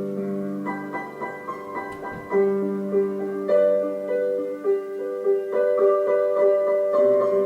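Background music led by piano: a gentle, slow melody of sustained notes over held chords.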